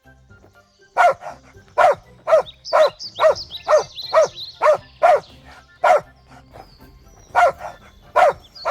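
A dog barking repeatedly, about two barks a second, starting about a second in. The barks stop for about a second and a half a little past halfway, then start again near the end.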